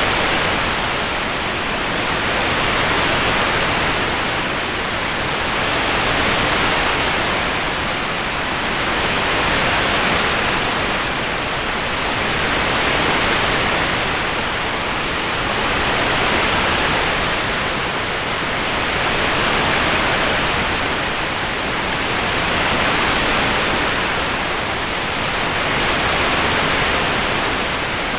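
Rain-sound ambience track: a steady, even hiss that swells and fades gently about every three and a half seconds.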